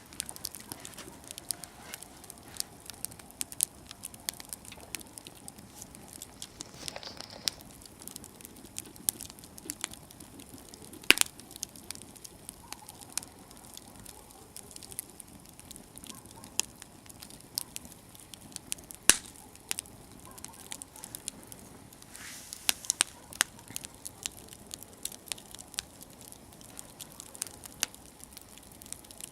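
Wood campfire burning, crackling with irregular sharp pops and snaps over a faint hiss; the loudest snaps come about eleven and nineteen seconds in.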